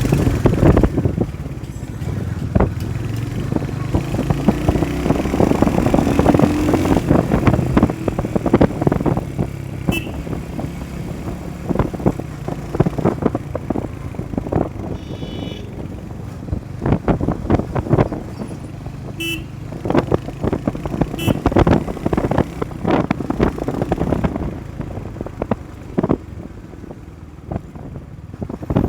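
Motorcycle ride in road traffic: engine running steadily, with vehicle horns tooting briefly several times.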